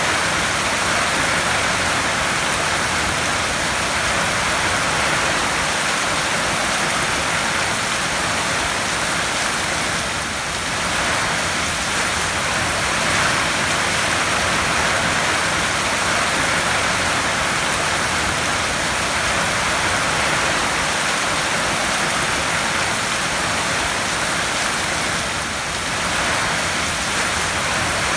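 Heavy rain falling on a tin roof: a dense, steady patter that dips slightly twice.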